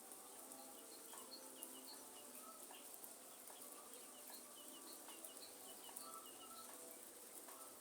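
Faint rainforest ambience: many short bird chirps over a steady high insect drone and a light, even hiss of rain.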